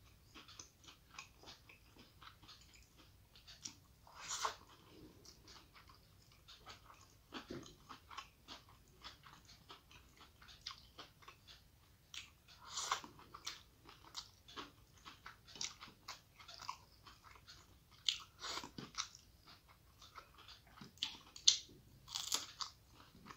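Close-miked chewing of rice eaten by hand: many small wet mouth clicks and smacks, with louder crunchy bites every few seconds. Near the end, a sharp crisp bite into a raw chili.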